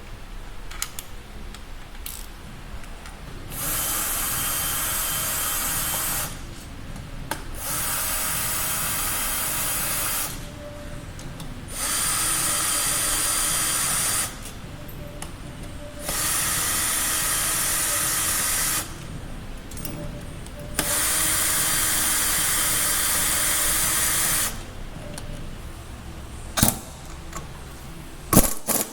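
A power driver runs in five separate bursts of a few seconds each, undoing fasteners during engine disassembly. Small clicks of metal parts fill the pauses, and there are a couple of sharp knocks near the end.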